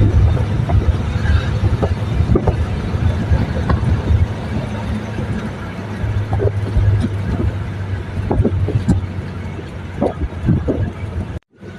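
Car driving on a rain-soaked road, heard from inside: a steady low engine and road rumble with scattered knocks and rattles from bumps. It cuts out for a moment near the end.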